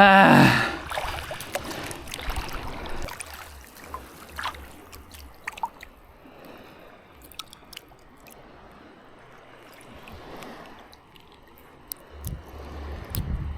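Water sloshing and trickling, with scattered small clicks and knocks. It opens with a loud, short pitched call that falls in pitch.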